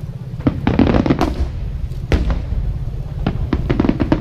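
Aerial fireworks going off: a rapid, irregular series of sharp bangs and crackling pops over a continuous low rumble.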